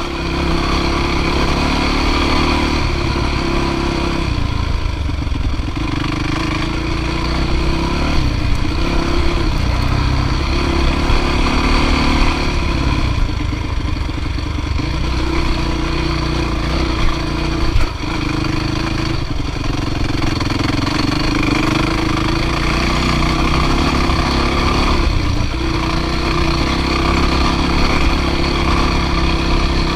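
Dirt bike engine running under load, the revs rising and falling over and over.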